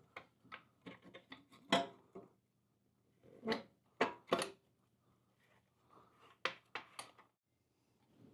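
Scattered clicks and light knocks of metal parts and hand tools being handled while a slip-on exhaust is fitted to a motorcycle, the sharpest around two, three and a half and four seconds in, over a faint steady hum.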